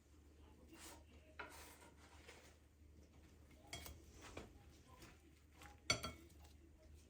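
Faint, scattered clinks and knocks of dishes and kitchen utensils being handled, about five in all, the sharpest one near the end.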